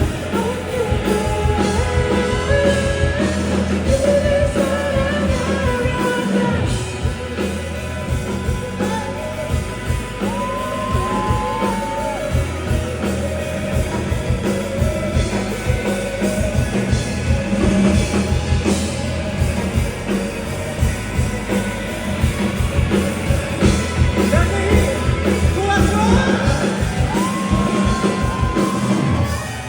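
Live rock band performance: a lead vocalist singing over electric band backing with bass and drums.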